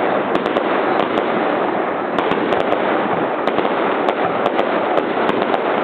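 Fireworks crackling: a dense, continuous stream of many small pops.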